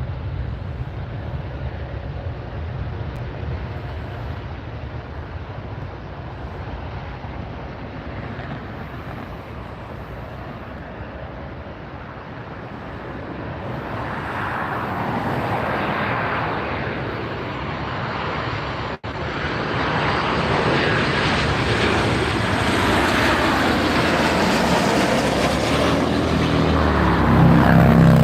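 Jet airliner engine noise at an airport: a steady rushing roar that builds from about halfway through as the aircraft comes closer, loudest near the end.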